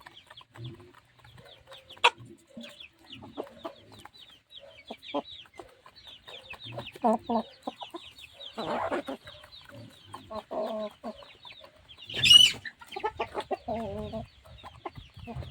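Chickens clucking over an almost continuous run of short, high, falling peeps from chicks, with one loud shrill squawk about twelve seconds in.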